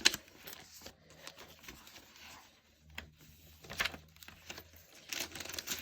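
Paper and card pages of a handmade junk journal being turned and handled: a sharp tap at the start, then soft rustles, a louder one about four seconds in and several near the end.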